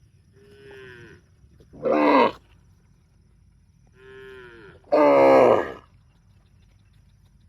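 A cow mooing twice, about three seconds apart. Each call starts soft and swells into a loud moo that falls in pitch; the second is longer.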